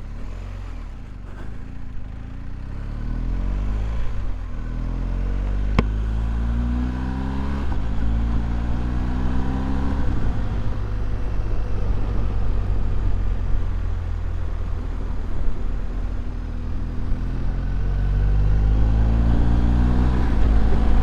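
Motorcycle engine pulling away and accelerating, its pitch rising in steps as it shifts up through the gears about 4, 6 and 10 seconds in, then running at a fairly steady speed. A single sharp click about 6 seconds in.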